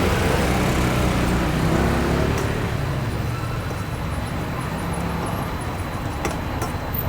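Road traffic: a motor vehicle's engine rumble is loudest over the first three seconds, then eases into steady traffic noise.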